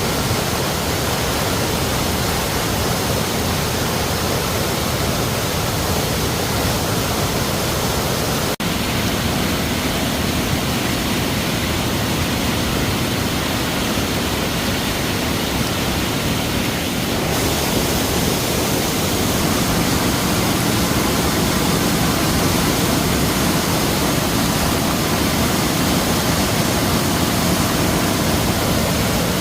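Mountain valley stream swollen by torrential rain, its floodwater rushing in a loud, steady wash of noise, with a momentary dropout about eight and a half seconds in.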